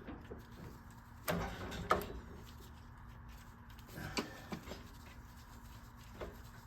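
A few scattered light knocks and clicks of hand tools being handled while fitting header bolts, over a faint steady hum. The loudest cluster comes about a second and a half in, with single smaller clicks later.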